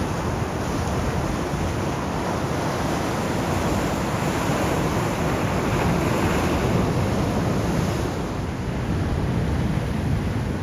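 Atlantic Ocean surf breaking and washing on the shore, a steady rush that swells louder about halfway through and then eases off.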